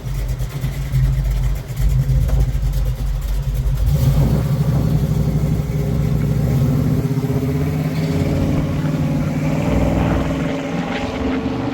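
A car's engine rumbling at low speed, then accelerating as it drives off: the engine note rises from about four seconds in until near the end, and then it fades away.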